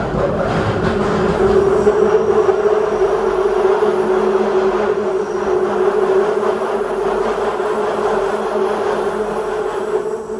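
Train running on rails: a steady hum over a rumbling noise that eases off near the end.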